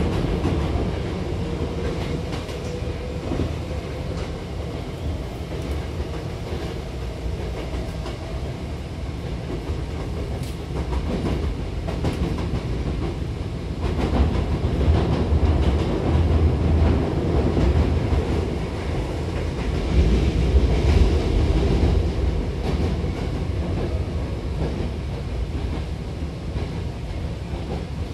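Hankyu 8000-series electric train running, heard from inside the car at the doors: a steady rumble of wheels on rails with clickety-clack from the rail joints. The rumble grows louder about 14 seconds in and again around 20 seconds.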